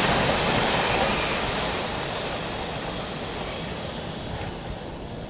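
A passing train's rumble and rush of noise fading steadily as it moves away along the line.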